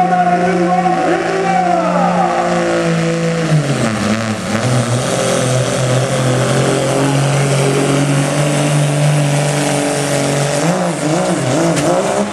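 Diesel pickup truck engine running hard at high revs. Its pitch drops between about two and four seconds in, holds steady at the lower pitch, then wavers up and down near the end.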